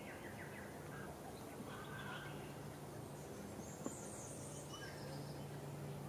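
Faint chirps of small birds, followed about halfway through by a brief high twittering, over a steady low hum. A single soft click comes near the middle.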